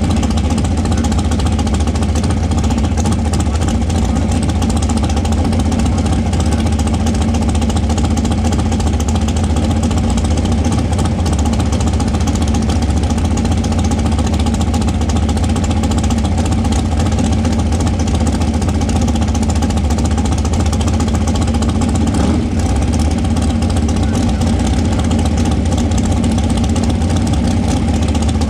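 Front-engine dragster's engine idling loudly and steadily, holding one pitch with no revving.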